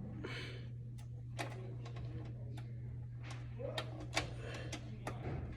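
Scattered light clicks, taps and a brief scrape from handling the parts and screws of a desktop computer being taken apart, over a steady low hum.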